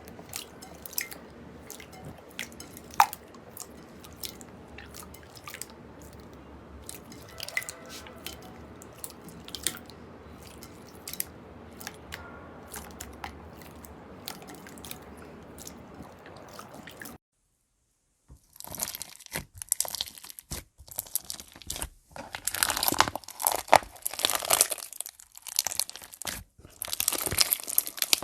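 Slime being played with by hand. First there are scattered small clicks and pops over a quiet background. After a brief silence about two-thirds of the way in, a crunchy slime is squeezed and pressed, with dense, loud crackling crunches.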